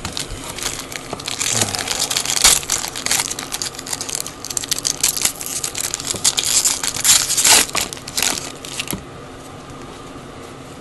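Trading-card pack wrapper being torn open and crumpled: dense crinkling and crackling with sharp snaps, stopping about nine seconds in.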